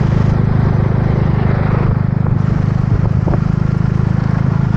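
A self-built Suzuki motorbike's engine running steadily under way, with a rush of wind and road noise.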